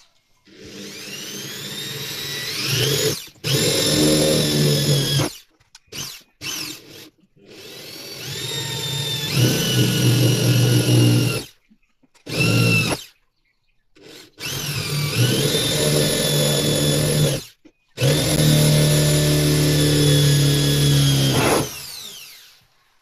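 Electric power drill run in repeated trigger pulls: about five runs of a few seconds each and a few short blips. On each run the motor whine climbs in pitch as it spins up, then cuts off.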